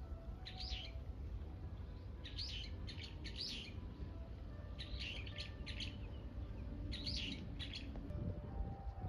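A songbird chirping in short groups of quick high notes, one group every second or two, over a steady low background rumble.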